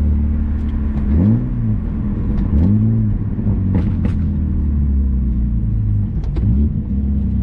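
Car engine running steadily with three quick throttle blips, each rev rising and falling back, the last one shorter.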